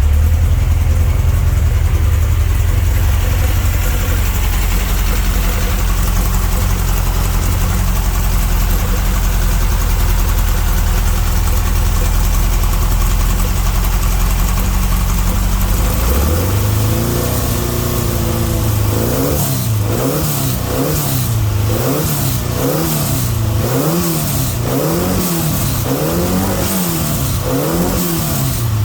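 Freshly built 2332cc Volkswagen flat-four with 13:1 compression, on its first run after being built ten years ago, holding a steady idle for about sixteen seconds. It is then blipped up in a run of quick revs, each rising and falling in about a second, before dropping back to idle at the end.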